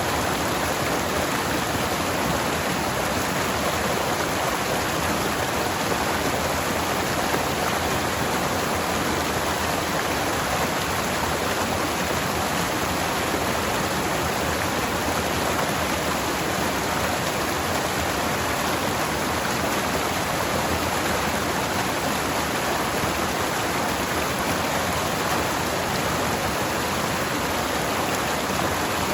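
Forest stream water flowing and splashing over rocks: a steady, even rush with no change.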